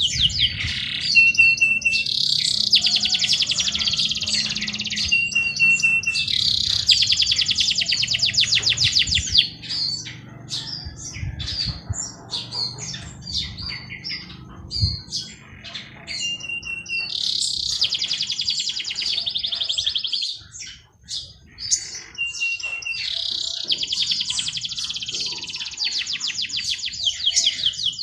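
Songbirds singing. One song repeats every few seconds: a short steady whistled note, then a long, rapid trill, with scattered chirps in between.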